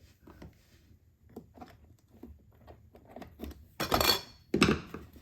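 Metal saw chain clinking and rattling in the hand as it is worked onto a chainsaw's bar and sprocket, light scattered clicks followed by two louder clatters about four seconds in.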